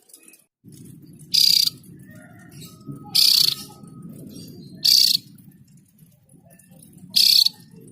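Javan grey-throated white-eye (opior jawa) giving four short, loud, harsh calls about two seconds apart, over a low steady rumble that starts a moment in.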